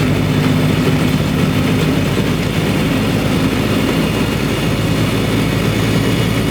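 Semi truck's diesel engine running steadily at highway speed, heard from inside the cab with road noise.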